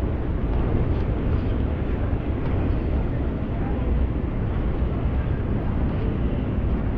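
Steady noise of a jet airliner in flight or taxiing: the even rush of engines and air.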